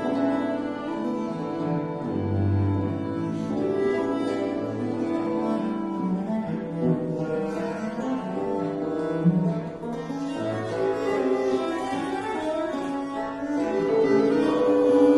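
Chamber ensemble music led by a bowed viola da gamba playing sustained notes, with several lines layered and low bass notes sounding every few seconds.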